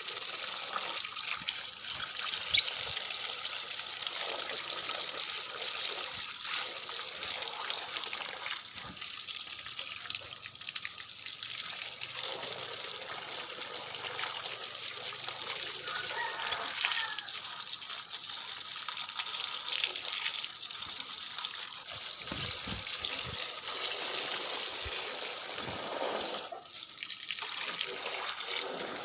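Water running and splashing steadily, as from a tap or hose washing bird droppings out of a cage. A single sharp click comes a couple of seconds in.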